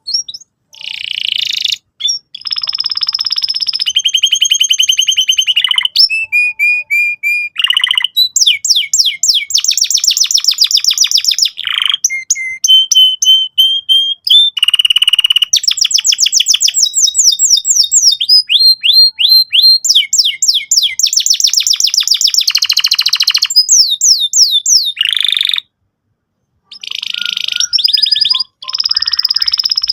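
Domestic canary singing a long, energetic song of fast repeated trills and rolls, switching from one phrase to the next every second or two, with one short break near the end. This is the hard-driving 'gacor' song used to lure young canaries into singing and learning.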